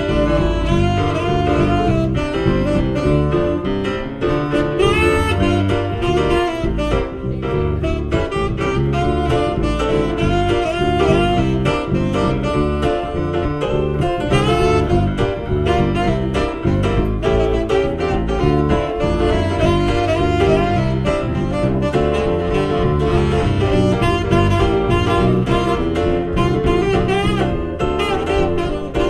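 Live band music with a saxophone carrying the melody over bass and a steady beat, in a jazzy style.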